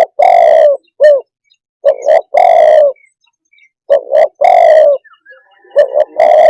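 Spotted dove cooing: repeated phrases of one or two short coos followed by a longer drawn-out coo, about three phrases with short pauses between.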